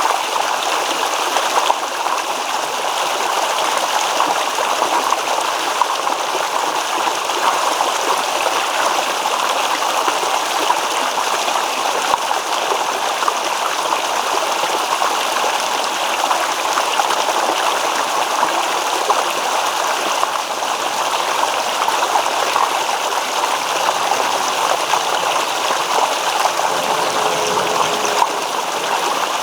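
Shallow stream babbling and trickling over stones, a steady, even rush of water.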